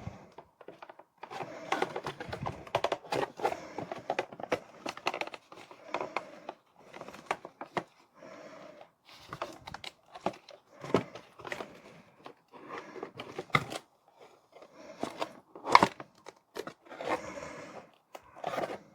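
Toy packaging being handled: irregular crinkling and rustling of plastic and cardboard, broken by sharp clicks and snaps.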